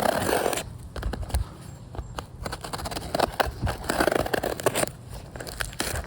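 Hands at work on parts or packaging: irregular scraping and rustling with scattered clicks, heaviest near the start and again about three to four seconds in.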